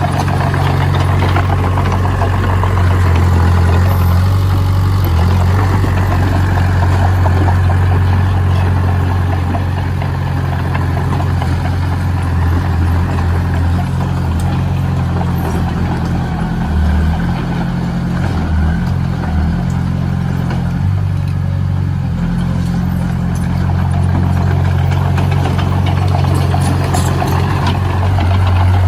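Heavy construction machine's engine running steadily at low revs, a deep, even hum that eases slightly around the middle and picks up again near the end.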